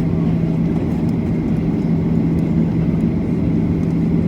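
Cabin noise of a Boeing 737 taxiing, its CFM56-7B engines at idle: a steady rumble with a constant low hum.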